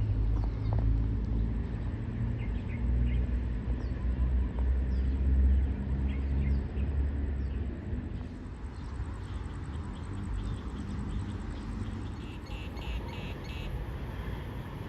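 A heavy engine runs with a low, steady drone that dies away about eight seconds in, while birds chirp.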